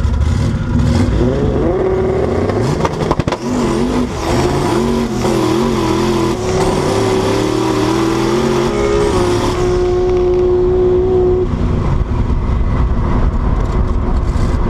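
Turbocharged race car engines at full throttle on a drag run. The engine note climbs, drops back at each gear change several times, then holds a high steady pitch.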